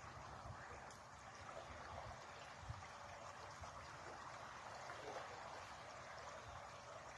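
River water flowing: a faint, steady rush, with a soft low thump about two and a half seconds in.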